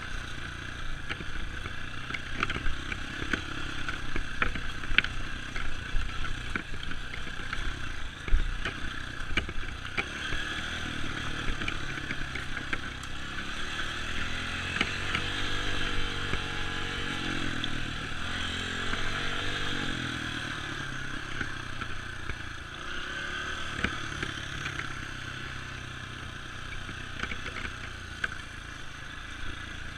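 Dirt bike engine running on a trail, its pitch rising and falling several times through the middle, with sharp clattering knocks scattered through the first half.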